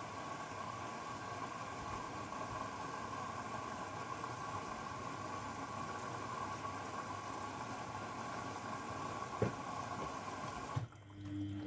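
Grundig washing machine taking in water: a steady rush with a faint whine that cuts off suddenly near the end, followed by a low steady hum.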